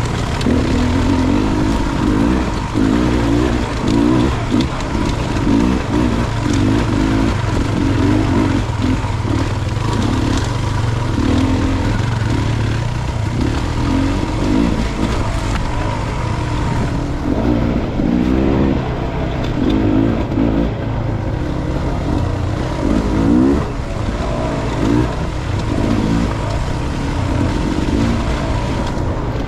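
Dirt bike engine on a trail ride, revs rising and falling constantly as the throttle is worked, with wind noise on the microphone.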